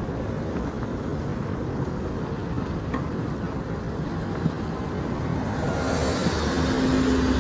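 Road traffic passing: a steady rumble of engines and tyres. About six seconds in, a vehicle draws closer and gets louder with a steady engine drone.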